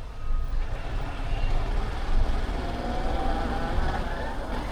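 A motorbike being ridden on the road: its engine runs under a heavy low wind rumble on the microphone, and a faint engine whine rises slowly about three seconds in.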